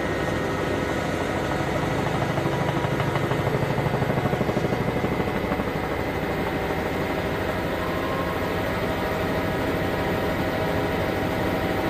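Steady engine drone made up of many held tones, with a throbbing, pulsing stretch in the middle that settles back to a steady hum.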